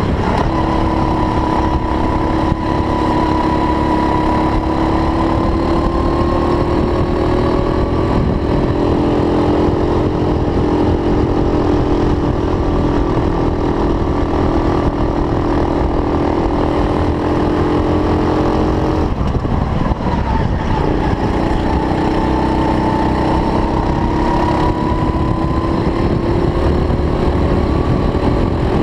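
Racing go-kart engine running hard, its pitch climbing slowly and then holding high. About two-thirds of the way through the revs drop sharply, as when lifting off for a corner, then climb again as it accelerates.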